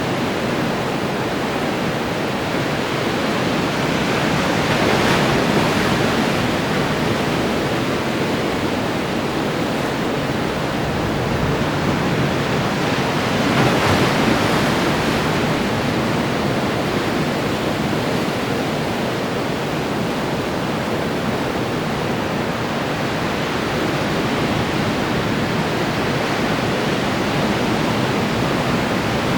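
Ocean waves breaking on the shore in a continuous wash of surf, with two waves about 5 and 14 seconds in standing out a little louder.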